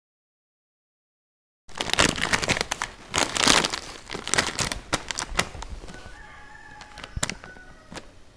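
Plastic packaging crinkling and rustling in dense bursts, starting about two seconds in and thinning out to a few scattered clicks after about six seconds.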